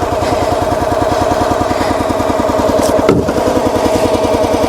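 Log splitter's small gasoline engine running steadily with an even, rapid chug, left to warm up after a cold start in about 10 °F so the engine and hydraulic oils can warm.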